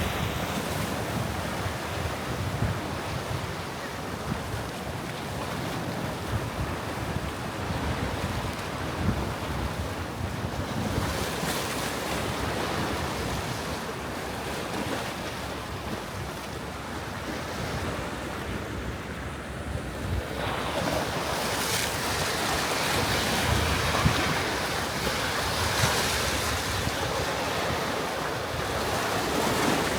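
Sea waves washing onto a beach, with wind buffeting the microphone in uneven low rumbles. About twenty seconds in, the surf becomes brighter and a little louder.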